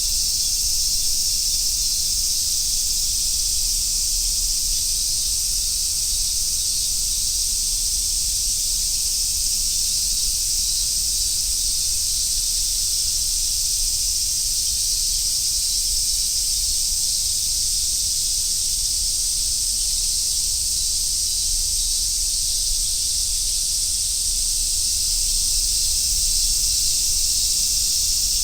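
Chorus of Japanese summer cicadas, such as large brown cicadas, singing together as one steady, unbroken, high-pitched drone.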